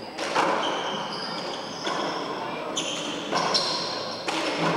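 A handball rally in a four-wall court: a hard rubber ball smacks off the walls and players' hands about six times, each hit ringing in the enclosed court, with high squeaks of shoes on the court floor between hits.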